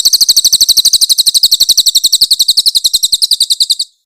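Crested jay (cililin) calling a loud, high-pitched rapid trill of about a dozen notes a second, held for nearly four seconds and then stopping abruptly.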